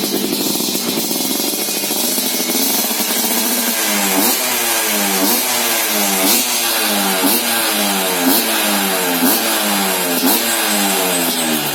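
Yamaha YT115 two-stroke single with a loud aftermarket expansion-chamber exhaust on a stock engine, running at a steady speed at first. From a few seconds in, the throttle is blipped about once a second, each rev rising quickly and falling back.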